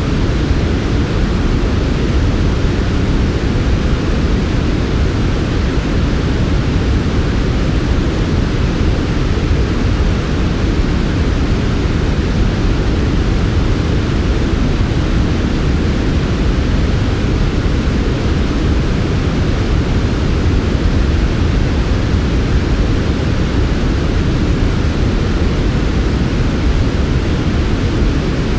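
Steady electronically generated sleep noise, a smooth, even hiss weighted toward the low end and unchanging in level.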